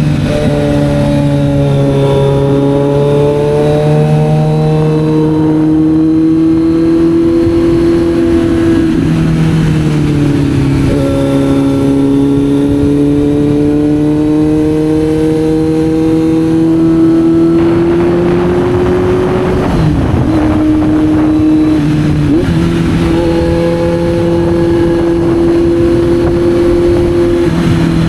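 Kawasaki Z900 inline-four engine running under way, its note slowly rising and falling with the throttle. A louder hiss joins for a few seconds about two-thirds of the way through.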